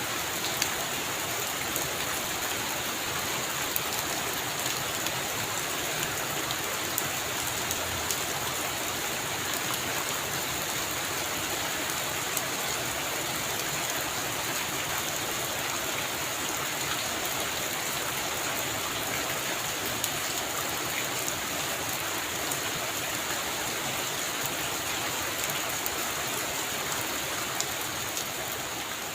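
Heavy rain falling steadily on a roof, a dense even hiss with scattered sharper drop hits.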